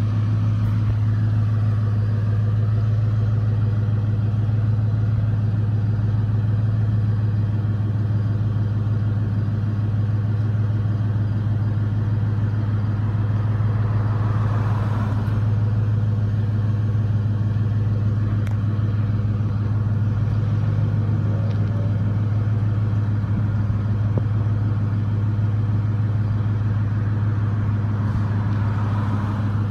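1999 Ford F-150 pickup engine, with 282,000 miles on it, idling steadily with a constant low hum.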